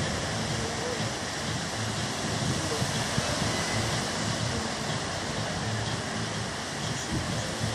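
Sea waves washing steadily, a continuous even rush with a low, uneven rumble beneath.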